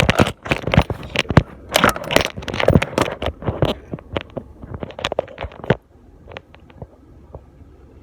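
Paper food wrapping being handled and opened, crinkling and crackling densely for about six seconds, then a few scattered clicks.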